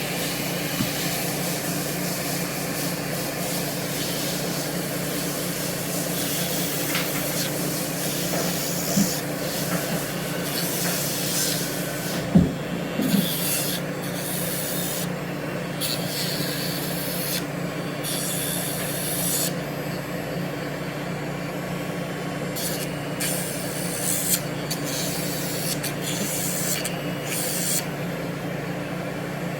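Cordless pet nail grinder running with a steady motor hum, its sanding drum rasping against a dog's nail in repeated short passes, the grinding hiss coming and going as it touches and leaves the nail. A single knock about halfway through.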